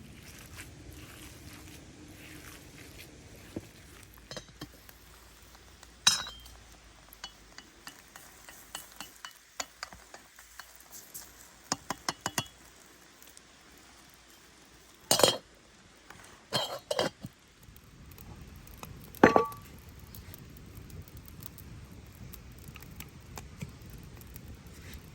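Cookware and utensils clinking and knocking: scattered light clinks and a handful of louder knocks, the last one ringing briefly.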